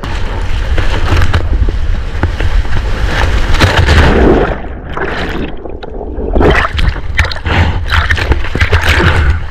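Seawater sloshing and splashing close to a GoPro held by a surfer in the water, in irregular surges over a constant deep rumble.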